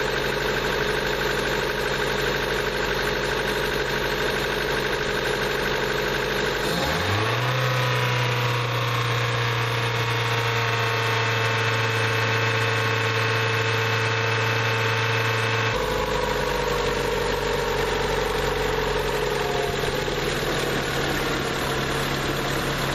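Honda D16Y8 1.6-litre SOHC VTEC four-cylinder engine idling, then revved up about seven seconds in and held at a steady 3,000 rpm, dropping back to idle after about sixteen seconds. It is being warmed up until the thermostat opens, to check the repaired thermostat housing for coolant leaks.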